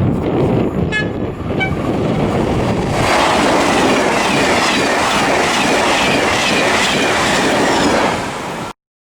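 A train passing at close range: a loud, continuous rumble and rush of wheels on rails, with two brief high tones about a second in. About three seconds in it becomes louder and harsher as the cars go by, then cuts off suddenly near the end.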